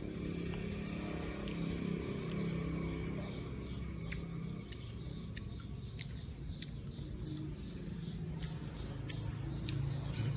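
A bird repeating a short, high, falling chirp about two to three times a second over a steady low rumble, with scattered sharp clicks.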